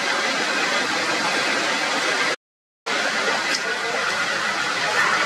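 Heavy rain falling steadily on forest foliage, a constant hiss. It cuts out to silence for about half a second roughly two and a half seconds in, then resumes.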